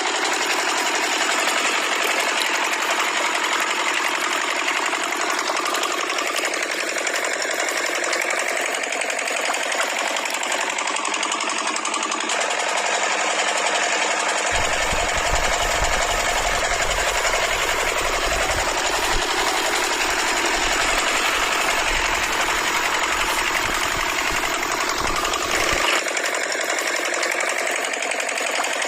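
Small motor of a miniature DIY model tractor machine running steadily with a fast mechanical rattle. A low rumble joins about halfway through and drops out near the end.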